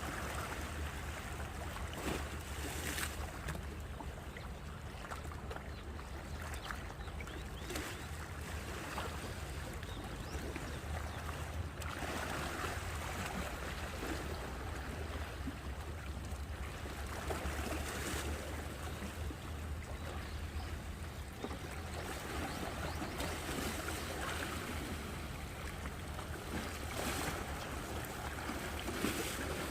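Sea waves washing onto the shore, swelling and easing every few seconds, with a steady low rumble of wind on the microphone.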